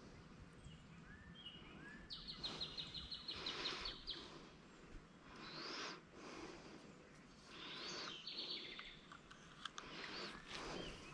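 Songbirds calling outdoors: a rapid, high chattering trill twice, with short rising chirps in between, over bursts of soft rushing noise.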